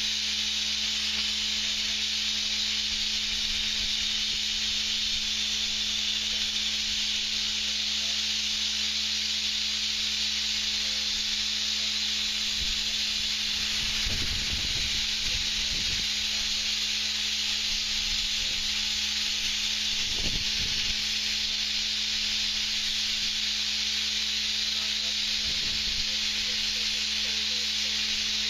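Blasting nozzle hissing steadily as tar is blasted off old timber, over a steady low machine hum.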